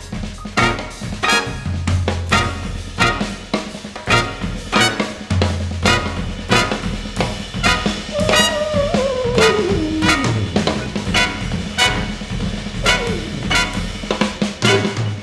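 Instrumental jazz from a small brass ensemble with drum kit: steady drum strokes under held low bass notes, and one long downward pitch slide about halfway through.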